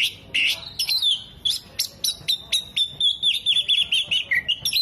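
Oriental magpie-robin (kacer) in full song: a fast run of sharp chirps and whistled notes, turning to a quick warbling trill after about three seconds.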